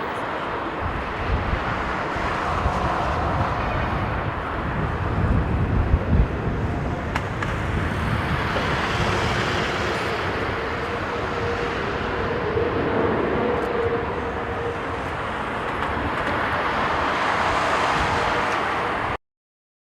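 Jet airliner engine noise mixed with strong gusting wind buffeting the microphone, with a faint steady whine in the middle; the sound cuts off suddenly near the end.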